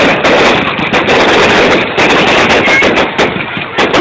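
Fireworks going off in a loud, dense barrage: rapid bangs and crackling running together, thinning slightly near the end.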